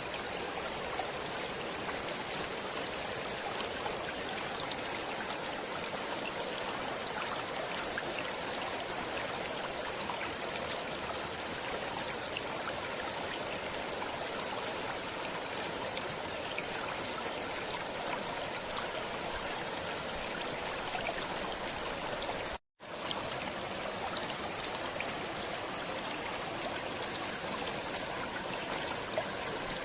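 Stream water flowing steadily, a continuous even rush and babble. The sound cuts out completely for a split second about three-quarters of the way through.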